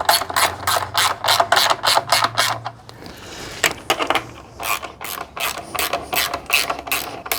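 Hand ratchet clicking in quick, even strokes, about four or five clicks a second, as a bolt is run in. The clicking stops briefly about three seconds in, then starts again.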